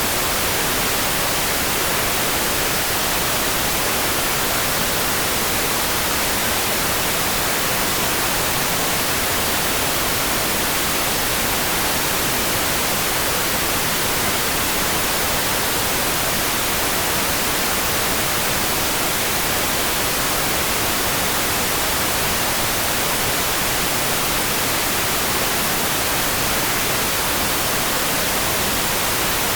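Steady, unbroken hiss of heavy rain, even and unchanging, with no separate drops or thunder standing out.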